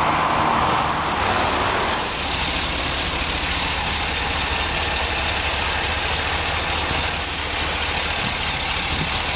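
General Motors 6.0-litre gasoline V8 of an Isuzu NPR truck idling steadily, heard with the cab tilted up over the engine.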